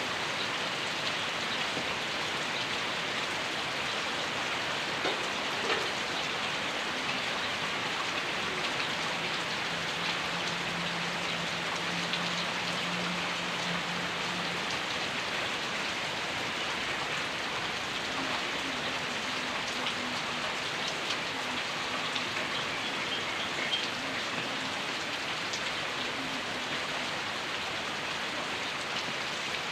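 Heavy rain falling steadily: a dense, even hiss of drops striking surfaces, with a faint low hum partway through.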